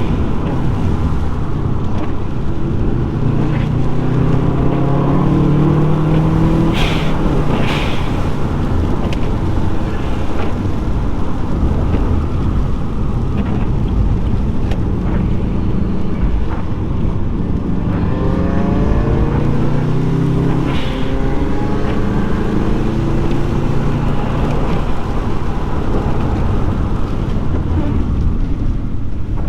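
Subaru Impreza WRX's turbocharged flat-four boxer engine accelerating hard on a twisting road. Its pitch climbs through each gear and drops back at the shifts, in several pulls.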